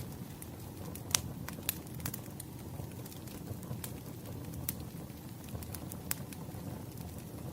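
Wood fire burning: a steady low rumble with irregular sharp crackles and pops, the loudest about a second in.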